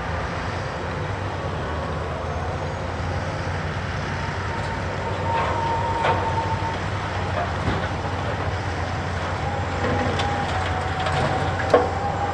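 Heavy diesel machinery of a Cat 390F excavator loading a Cat 773G haul truck, running steadily with a low rumble. A thin whine comes in around the middle and again near the end, and several sharp knocks sound, the loudest just before the end.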